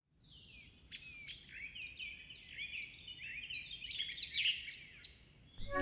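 Several small songbirds chirping and singing, their quick, high notes overlapping. The calls stop about half a second before the end.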